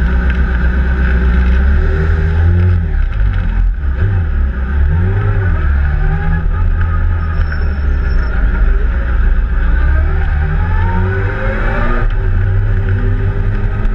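Suzuki GSX-R1000's inline-four engine running as the bike rides along, its pitch rising and falling several times through throttle changes and gear shifts, with a brief drop about four seconds in. Heard from a camera mounted on the bike itself.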